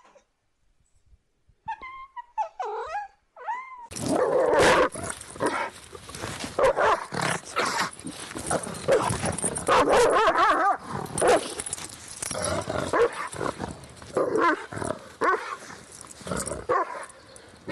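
A few short cat meows, then from about four seconds in a dog barking and growling almost without a break.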